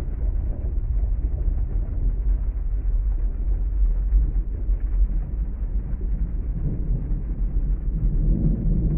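Heavy rain and thunderstorm ambience: a steady, muffled low rumble, with a swell of rumbling thunder near the end.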